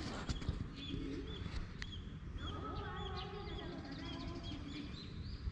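A small bird giving short, high chirps over and over, about two or three a second, against a low steady rumble.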